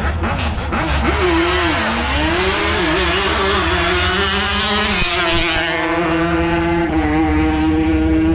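Engine of a drag-strip car or bike revving, its pitch wavering up and down, then held at a steady high note from about five seconds in.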